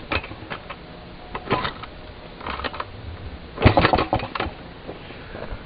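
Single-cylinder Maytag two-stroke engine firing only sporadically, a few irregular bursts of pops with gaps between them, then dying out about four and a half seconds in. It is starved after a carburetor adjustment and won't keep running.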